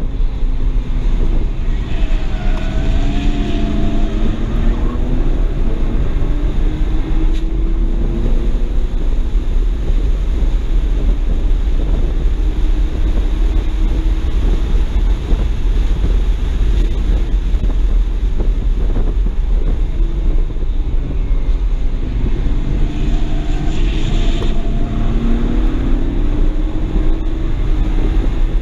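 BMW 335i's N54 twin-turbo inline-six heard from inside the cabin under a steady low rumble of road and wind noise. Its pitch rises as it pulls, about two seconds in and again a little past twenty seconds in.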